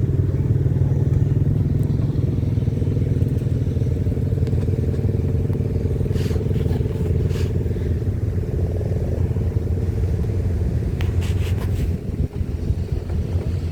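An engine running steadily with a fast, even beat, with a few light clicks about halfway through and near the end.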